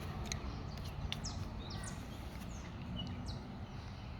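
Birds chirping in short, quick falling calls over a steady outdoor background rumble, with a few faint sharp clicks.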